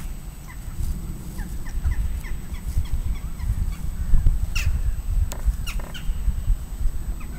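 Wild birds calling: many short chirps, with a few louder, sharper calls around the middle, over a steady low rumble.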